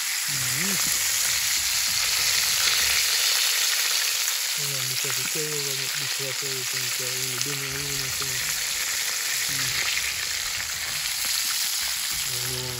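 Chicken pieces frying in hot oil in an open pan, a steady sizzle.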